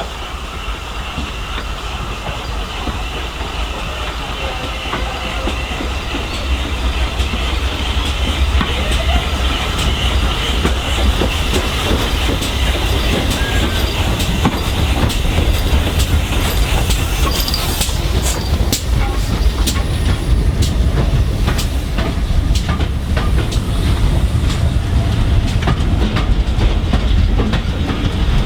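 Steam-hauled train running on the rails, a steady rumble that grows louder, with a quick run of wheel clicks over the rail joints from about halfway through.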